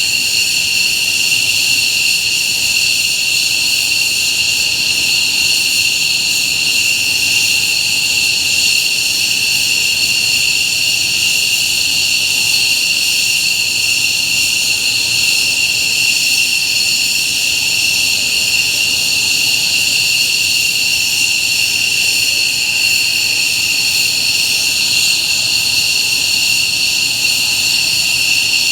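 F-15J fighter's turbofan engines running at idle: a loud, steady high-pitched jet whine that holds the same pitch throughout.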